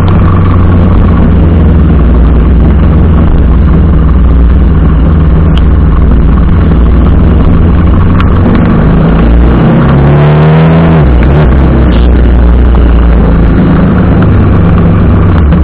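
TVS Apache RR 310 motorcycle's single-cylinder engine running steadily while riding, under a constant rushing noise. About ten seconds in, the engine note rises and then drops back.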